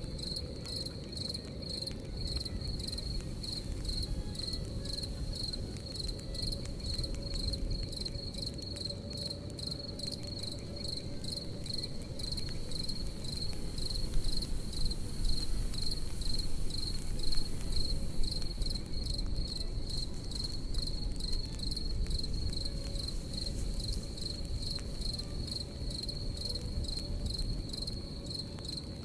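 Crickets chirping in a steady, even pulse over the crackling and low rumble of a campfire, with a few louder pops from the fire about halfway through.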